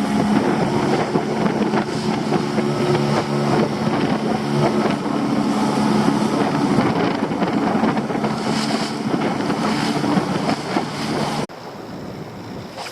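Small boat's engine running under way, a steady hum that fades in the second half, with wind buffeting the microphone and water rushing past. It starts sharply and cuts off abruptly near the end.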